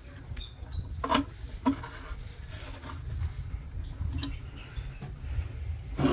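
Low steady rumble with a few sharp knocks and clicks: twice close together about a second in, once past the middle, and a louder one at the end.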